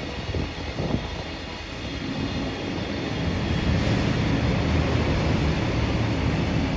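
A train running past, a steady rumble that grows louder about two seconds in.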